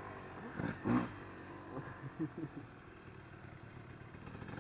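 Two-stroke dirt bike engine running, with one short clatter about a second in.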